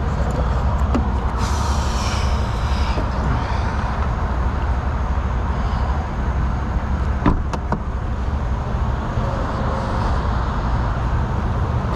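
A vehicle engine running with a steady low rumble, a short hiss about a second and a half in, and a sharp click about seven seconds in.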